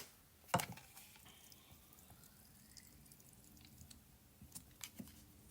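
Faint wet squishes and clicks of a meat injector being worked, pushing marinade into a raw turkey, with one sharper click about half a second in.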